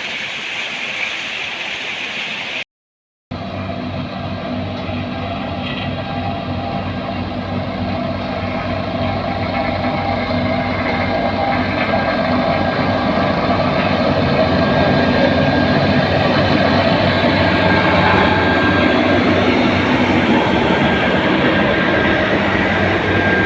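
Heavy machine engine running steadily, growing slowly louder after a brief cut to silence about three seconds in.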